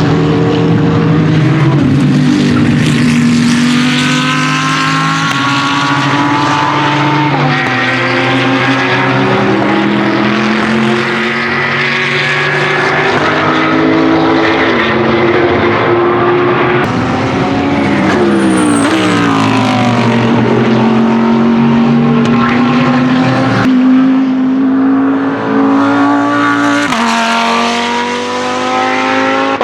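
Lamborghini Huracan GT3 Evo's naturally aspirated 5.2-litre V10 racing engine at full throttle, its pitch climbing through the gears and dropping sharply on the shifts, with a long falling sweep about two-thirds of the way through as the car brakes and passes. The sound jumps abruptly a few times between passes.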